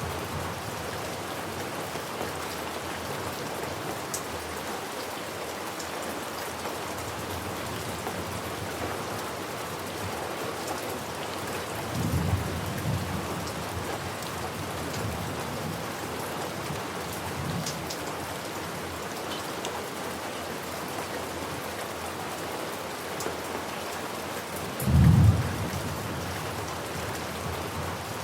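Steady rain falling, with low rolls of thunder rumbling about twelve seconds in and faintly a few times after, and a short, louder thunderclap near the end.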